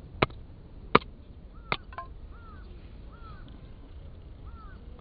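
Four sharp cracks in the first two seconds, a bit of wood splitting or snapping at the fire, then a small bird chirping briefly several times over a quiet outdoor background.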